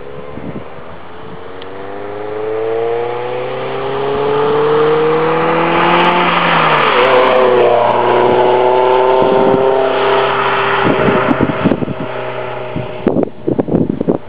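2001 MGF 1.8i's K-series four-cylinder engine running through a Mike Satur Daytona sports exhaust, accelerating with its note rising steadily for about seven seconds. The pitch then wavers briefly and holds steady. Wind buffets the microphone near the end.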